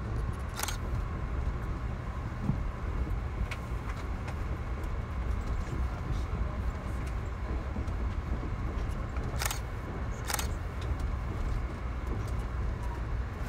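Steady low rumble of a passenger train riding along, heard from inside the coach, with a few sharp clicks scattered through it.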